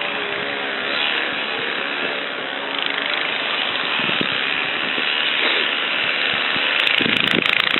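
A small engine running steadily outdoors, with a few knocks near the end.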